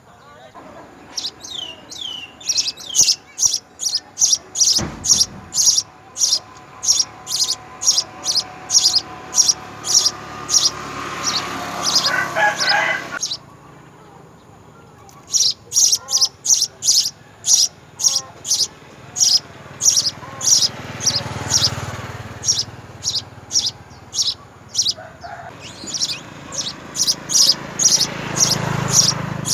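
Small birds chirping in a fast run of short, high chirps, about two to three a second, with a brief pause a little before the middle.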